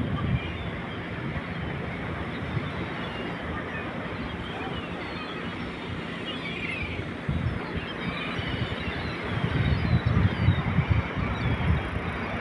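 Wind buffeting the microphone over a steady wash of sea noise, the buffeting growing stronger in the second half, with faint high chirps like distant birds.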